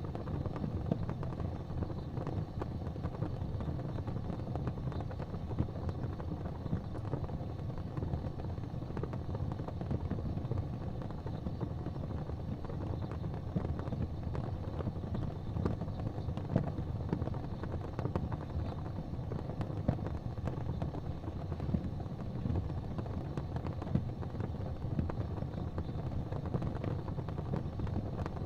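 Fire crackling in a fireplace, with irregular small pops and an occasional louder crack over a steady low rumble.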